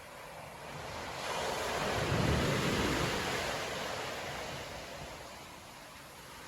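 A storm wave breaking on the beach: the surf noise swells for about a second, peaks with a deep rumble around two seconds in, then washes back and fades.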